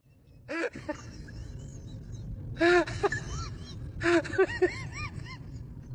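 A small animal giving short, high calls that rise and fall, in small groups of one to three, over a low steady background.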